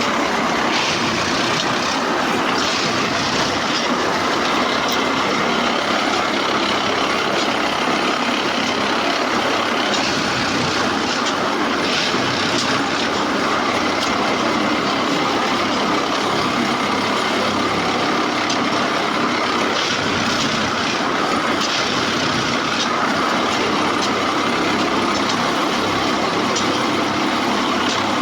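PCTM railway track maintenance machine working: a steady, loud mechanical din of engine and rail running gear, with a few brief louder bursts of noise.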